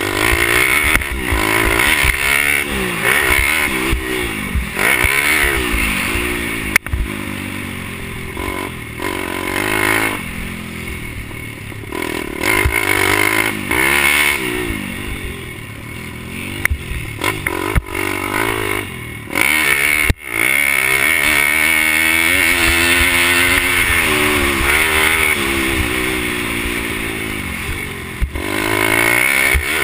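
Pit bike's small four-stroke engine racing, its pitch rising and falling over and over as the rider goes on and off the throttle through the gears.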